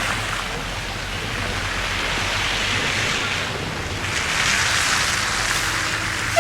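Tyres hissing and spraying through slush on a wet, snowy road, swelling twice as vehicles pass.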